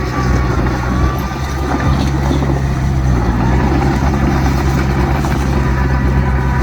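Heavy diesel engine of an earthmoving machine running steadily under load, with a thin high whine over it.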